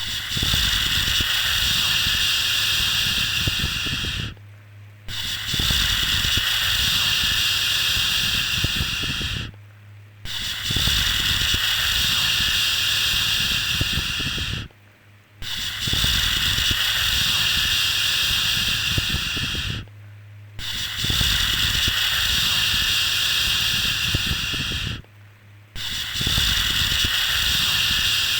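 A long 'shhh' shushing sound, repeated about every five seconds: each shush lasts about four and a half seconds with a short break of under a second between them, over a steady low hum.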